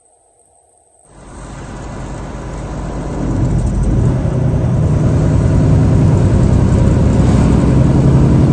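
Motor vehicle engine noise starting suddenly about a second in, swelling as it accelerates, then running loud and steady.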